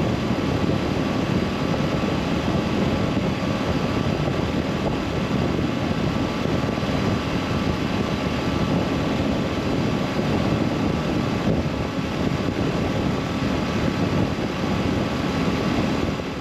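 Yamaha SR400's carbureted single-cylinder engine running steadily while riding, mixed with road and wind noise; it fades out at the very end.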